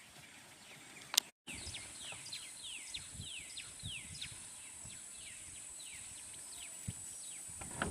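Wild birds calling in a series of short, downward-sliding notes, about two to three a second, over a steady high-pitched whine. A sharp click and a brief gap come about a second in.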